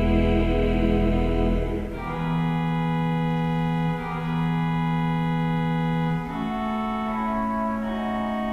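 Sacred choral music: a vocal quartet holds a final chord over accompaniment, stops about two seconds in, and an organ continues alone with slow, sustained chords that change every two seconds or so.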